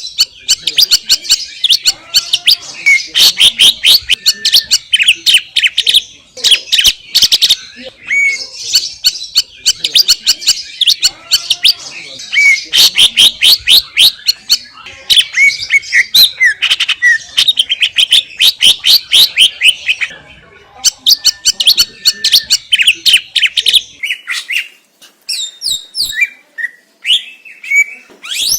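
A green leafbird (cucak ijo) singing loudly: long, fast runs of varied chirping and whistled notes in phrases separated by short pauses. The song thins out to scattered notes near the end.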